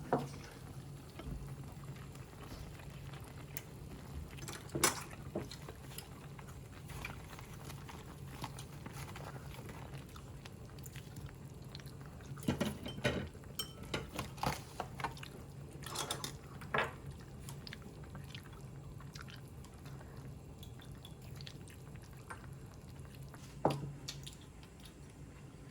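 Quiet meal sounds: scattered clinks and taps of chopsticks and spoons against bowls and dishes, bunched together in the middle, with chewing, over a steady low hum.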